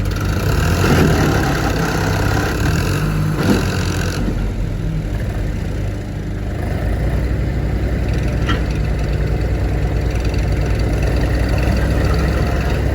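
Heavy diesel engine running at idle and low revs, with a single knock about three and a half seconds in. A few seconds later it settles into a steady, lower rumble.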